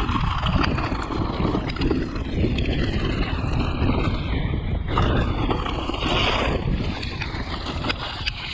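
A mountain bike riding a wet, muddy trail: tyres working through mud and water and the bike rattling over bumps, with wind noise on the microphone.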